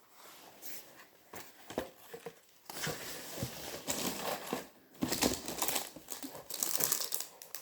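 Packaging rustling and crinkling as items are handled and unwrapped, in irregular handfuls that grow busier about halfway through.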